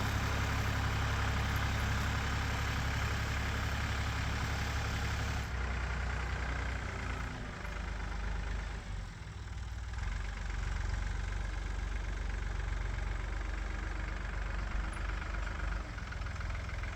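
Tractor engine running steadily, its note changing about five seconds in and dipping briefly around nine seconds.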